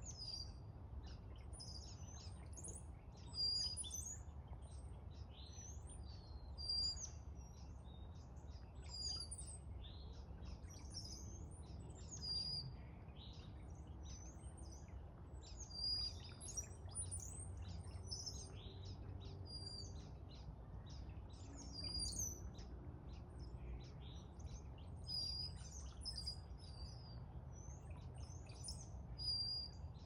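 Small songbirds in a bare tree chirping and twittering in quick overlapping notes, with a louder, clearer call every three or four seconds. A low steady rumble runs underneath.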